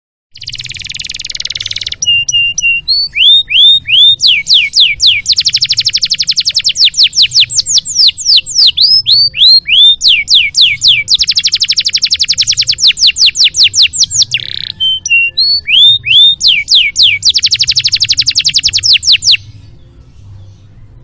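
Canary singing a long, varied song: a buzzy opening, then series of downward-sweeping whistled notes and very fast rolls and trills, one after another, breaking off sharply about 19 seconds in. A faint low hum runs underneath.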